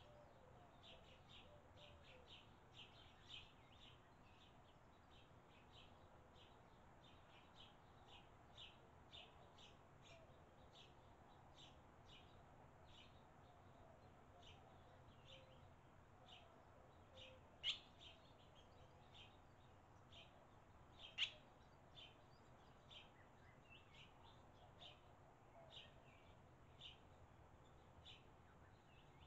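Faint, quick high chirps of small birds, one or two a second, with two sharper, louder chirps a little past the middle.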